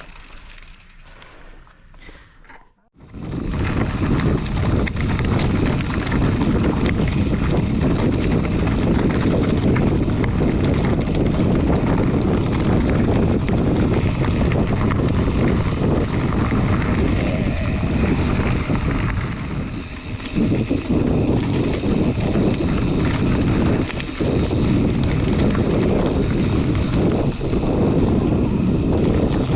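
Mountain bike riding a dirt trail: wind buffeting the action camera's microphone over steady tyre and frame rumble, starting suddenly about three seconds in after a quieter moment.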